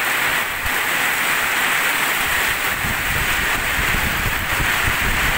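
Heavy rain pouring down steadily in a strong wind. From about halfway, gusts buffet the microphone with a low rumble.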